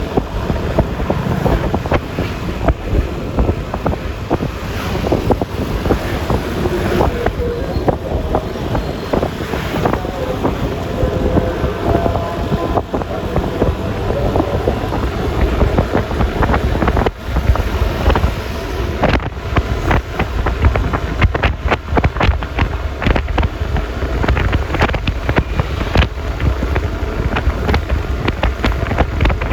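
Wind buffeting the microphone on a moving Yamaha Lexi LX 155 scooter, over a steady low rumble of engine and road noise, with frequent gusty crackling.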